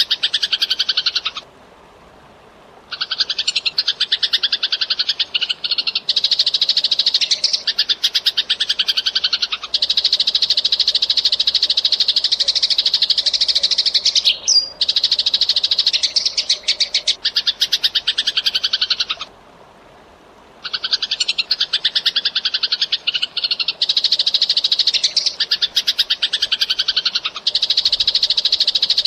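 Eurasian tree sparrow chattering in a fast, dense, unbroken stream of chirps, with two short pauses, one about two seconds in and one about twenty seconds in.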